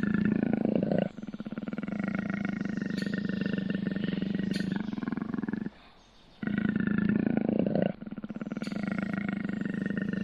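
Leopard growling: a loud snarl that runs into a long rasping growl, the same sequence heard twice with a short break between.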